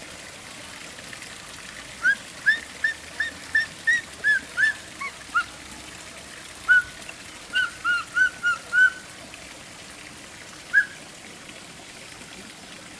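A bird calling: a fast run of short, clear whistled notes, about three a second, then a second run after a brief pause, and one last note near the end. A steady sound of running water underneath.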